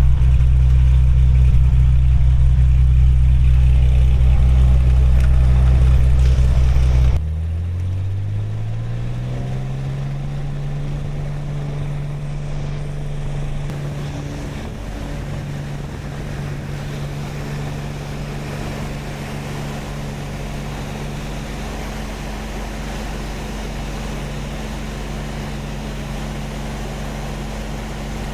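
Small propeller plane's engine running, heard inside the cabin. About seven seconds in, the sound drops suddenly, then the engine pitch rises over a few seconds and holds steady at a higher note.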